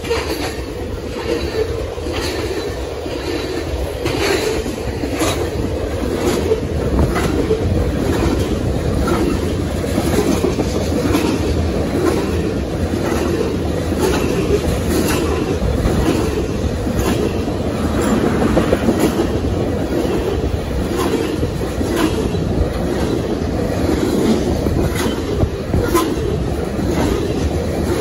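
Railroad tank cars of a long oil train rolling past close by: a steady rumble of steel wheels on rail with repeated clickety-clack as wheel sets pass over the track.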